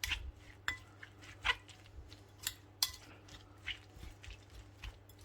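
A utensil clinking and scraping against a bowl while soft cheese is mashed into a sauce: irregular light clicks, roughly one a second.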